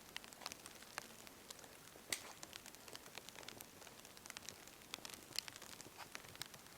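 Small wood campfire crackling faintly, with scattered irregular pops and snaps over a low hiss.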